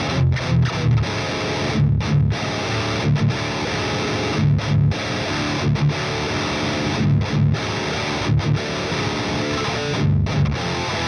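Epiphone Widow Les Paul Custom electric guitar played through heavy distortion: low chugging riffs with several abrupt stops between phrases.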